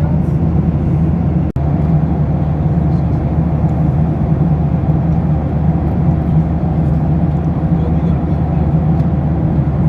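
Steady cabin noise inside a Boeing 737-800 in cruise: a low, even rush of engine and airflow noise. The sound cuts out for an instant about one and a half seconds in.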